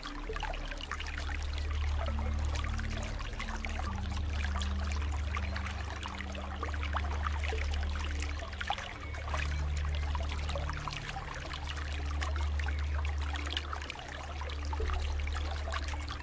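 Flowing water trickling and splashing steadily. Underneath run low held tones that shift every few seconds.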